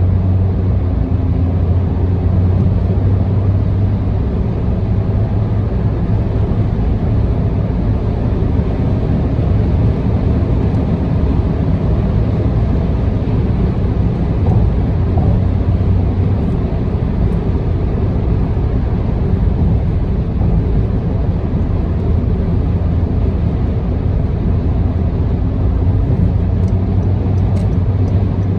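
A car cruising at speed on an expressway, heard from inside the cabin: a steady drone of tyre, road and engine noise with a strong low hum.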